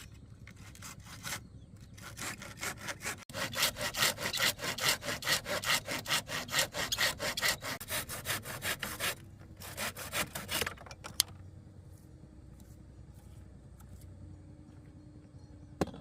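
Hand saw cutting with quick, even back-and-forth strokes for about seven seconds, then a short second run of strokes before it stops.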